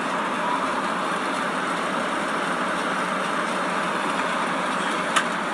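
Steady cabin noise of a light aircraft's engine and propeller running, an even drone, with a single sharp click about five seconds in.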